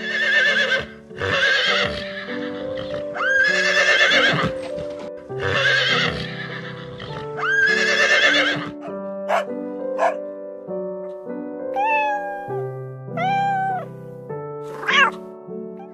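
A horse whinnying, about five neighs in the first nine seconds, over background music. Near the end a cat meows twice, drawn out and arching in pitch, followed by a short sharp cry.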